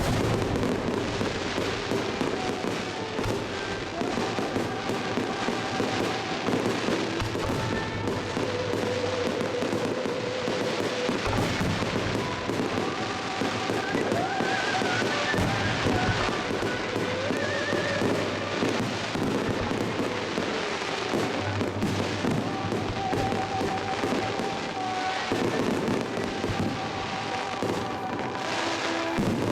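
Aerial fireworks display: a dense, unbroken run of bursts and crackles, with music playing underneath.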